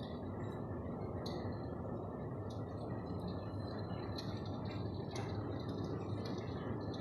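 Electric fireplace running: a steady low whir with scattered light crackling clicks over it.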